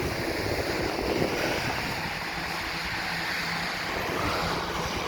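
Sea waves washing against the shore with wind buffeting the microphone, a steady rushing noise.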